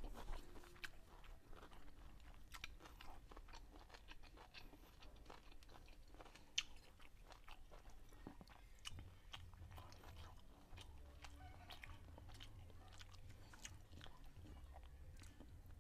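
Faint close-up chewing of a mouthful of rice and stir-fried chicken gizzard, with soft wet mouth clicks and smacks, and one sharper click about six and a half seconds in.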